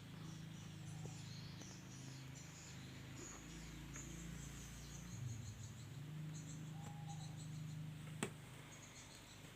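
Faint, scattered high chirping over a low steady hum, with one sharp click about eight seconds in.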